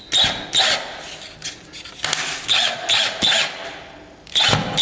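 Cordless drill driver running in several short bursts, driving screws to fix the repaired plaster and cornice up to the ceiling.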